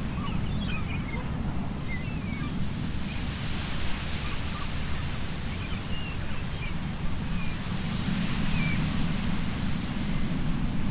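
Sea surf and wind buffeting the microphone make a steady rumbling wash. Short, high bird chirps come and go through it.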